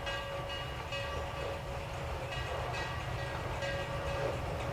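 A train rumbling steadily, with a bell struck again and again at uneven intervals, each stroke ringing briefly.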